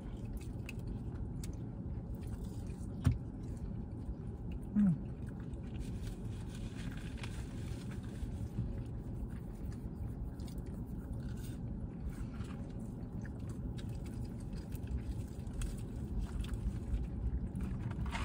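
People chewing and biting fried fast food, fries and fried chicken, over a low steady background hum. There is a single sharp click about three seconds in and a brief low hum about five seconds in.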